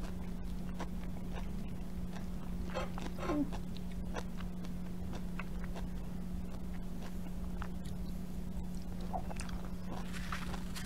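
Close-miked mouth sounds of a person biting and chewing pieces of fresh orange: scattered small wet clicks and crunches over a steady low hum.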